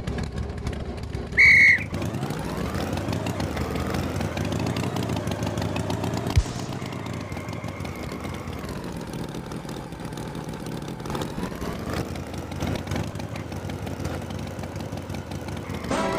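Tractor engine running, its pitch rising and falling as it revs, with a short loud high toot about a second and a half in and a sharp click about six seconds in.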